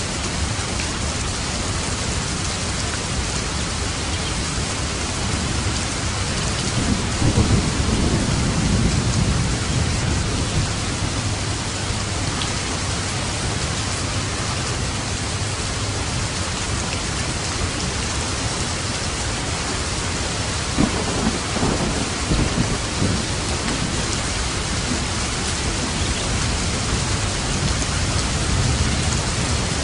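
Steady heavy rain, with low rumbles of thunder twice: about a quarter of the way in and again about two-thirds through.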